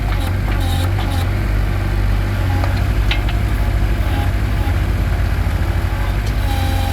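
Engine of a ride-on digger running steadily with a low, pulsing rumble while its arm and claw are worked.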